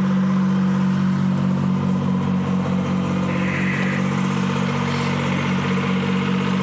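Detroit Diesel 3-71 two-stroke three-cylinder diesel power unit running steadily at idle, with a short hiss about halfway through.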